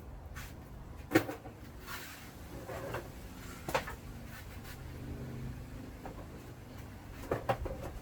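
Scrap wire being stripped and handled: a few sharp clicks and knocks from the wire and tool, about a second in, near four seconds, and several close together near the end, over a faint steady background.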